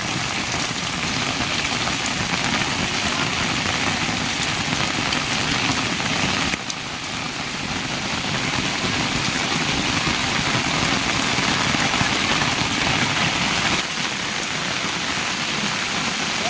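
Steady rain falling hard in a storm, an even hiss that dips briefly twice, about a third of the way in and near the end.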